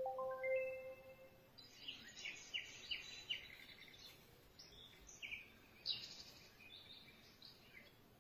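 A quick rising run of chime-like tones, then a series of faint bird-like chirps and twitters that keep on, on and off, until near the end.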